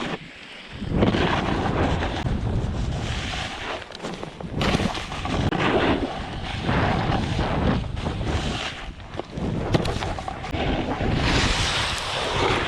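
Snowboard riding down a snowy run: wind rushing over the microphone and the board's edges scraping across the snow, swelling and easing with each turn, with a few sharp scrapes or knocks near the end.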